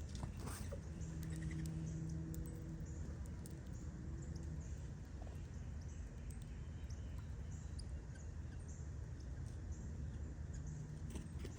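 Small birds chirping over and over in short high chirps, with scattered light clicks and a steady low rumble beneath.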